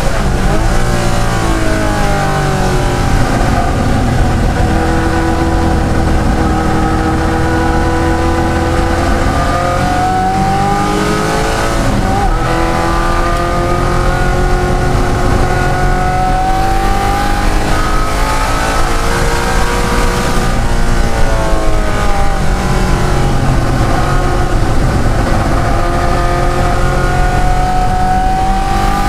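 De Tomaso Pantera's V8 racing engine under hard acceleration, its pitch climbing, then falling off several times at gear changes or lifts before climbing again. It is loud throughout.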